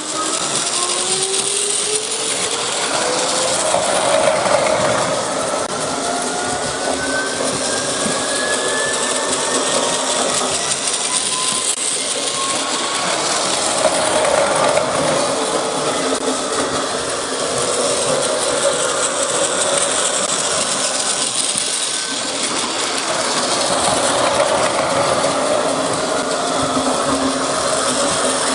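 Electric train running, its motor whine rising steadily in pitch over the first dozen seconds as it speeds up, over steady running noise.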